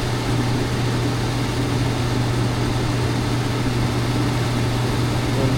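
Furnace blower fan running with a steady low hum and even air rush.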